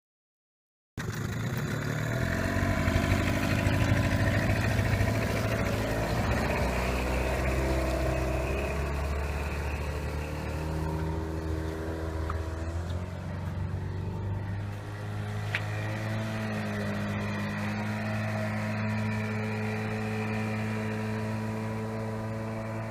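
Outboard motor on an inflatable boat running, starting about a second in; its pitch shifts over the first several seconds, then it settles into a steady run.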